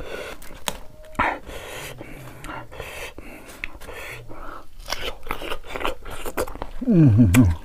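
Close-up chewing of crisp raw green mango: irregular small crunches and mouth clicks. Near the end comes a loud vocal sound falling in pitch.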